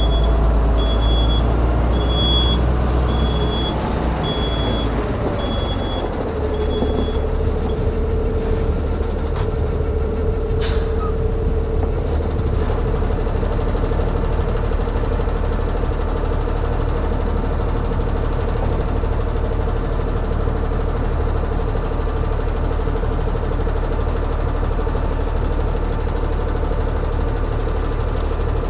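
Ford Cargo 2628 dump truck's diesel engine running steadily, heard from the cab. A high beeper sounds about once a second for the first seven seconds, a steady whine comes in about six seconds in, and a brief sharp burst stands out about eleven seconds in.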